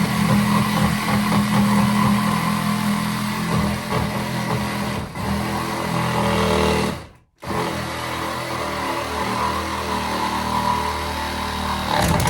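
Handheld electric power tool running steadily under load on wood, cutting off briefly about seven seconds in and then running on.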